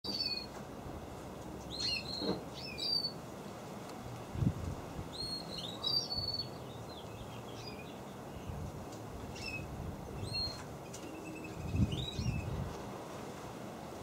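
Small birds chirping in short, scattered calls, each a quick sharp chirp that glides up or down in pitch. A few dull low thumps come about four and a half, six and twelve seconds in.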